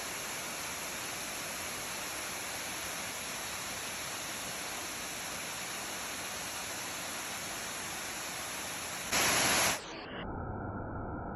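Waterfall rushing: a steady, even hiss of falling water, with a brief louder burst of hiss about nine seconds in before it cuts off suddenly.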